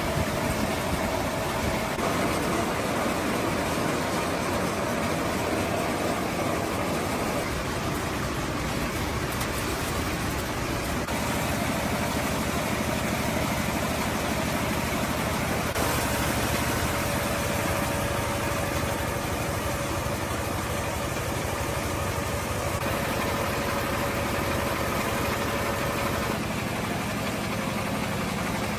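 Old diesel engine running steadily at idle after its repair.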